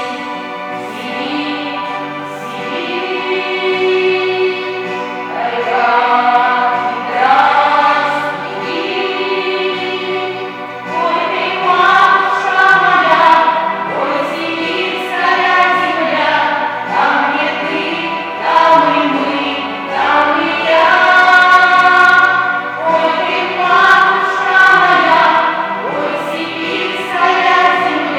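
A school vocal ensemble singing a song in chorus, with long held notes, over instrumental accompaniment.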